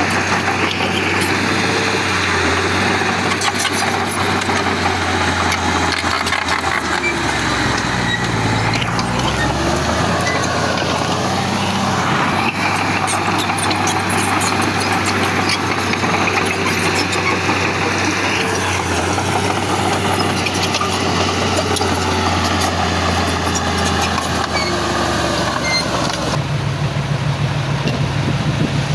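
Heavy diesel engine running under load with metallic clanks and squealing glides, its engine speed dipping and recovering partway through and stepping up near the end.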